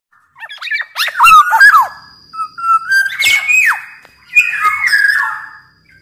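Black-naped oriole (kepodang) singing in three loud bursts of fluty whistles that slide downward, mixed with quick harsh notes. A thin steady high tone runs under the second half.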